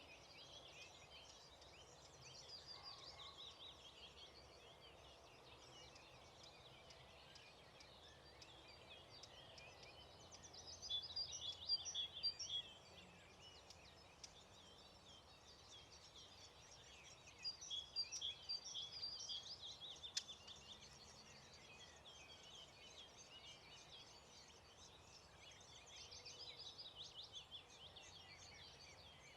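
Faint birdsong at a lake at dawn: four phrases of rapid, chattering high notes, each lasting a couple of seconds, over a soft steady background hiss. A single sharp click comes about two-thirds of the way through.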